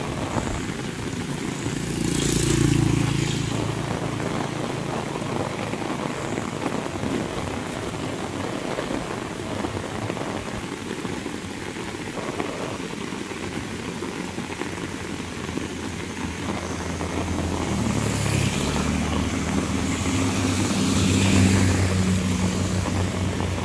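Heavy rain falling steadily on a paved road and roadside vegetation. An engine passes briefly about two seconds in. From about eighteen seconds a motorcycle and a car come closer on the wet road, loudest near the end.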